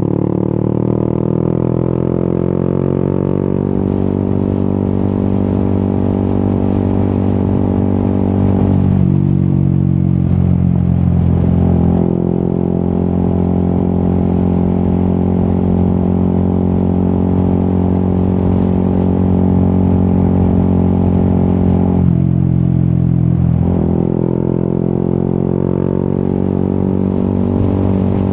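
Yamaha XSR 155's single-cylinder engine running through an Akrapovic exhaust at a steady cruise. The pitch drops twice, about nine and about twenty-two seconds in, then comes back up a couple of seconds later.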